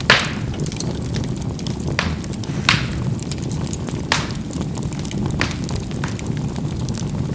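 Charcoal burning in a fireplace: a steady low rush of the fire with sharp pops of the embers cracking every second or two, about six in all, the loudest right at the start.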